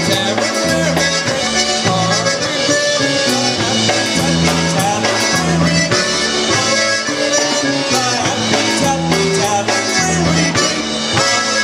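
Polka band playing an instrumental passage of a polka live, with a reed melody over a bass that alternates notes in a steady bouncing beat, and drums.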